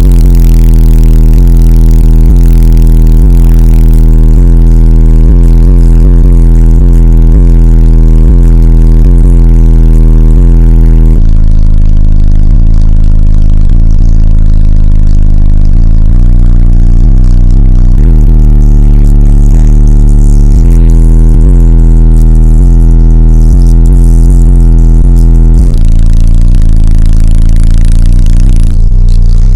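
Bass-heavy music played at extreme volume through a car audio system's single 15-inch AudioQue HDC3 subwoofer, driven by an AudioQue AQ 2200D amplifier. The deep bass notes change through the song, and the recording is pinned at its maximum level, clipped and distorted.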